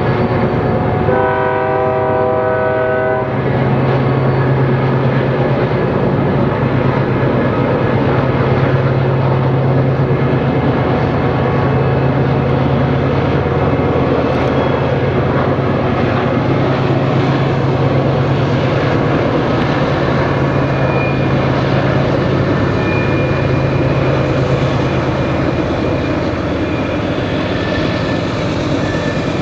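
BNSF diesel freight locomotives passing. A single horn blast comes about a second in and lasts about two seconds. It is followed by the steady low drone of the diesel engines over the running noise of the train.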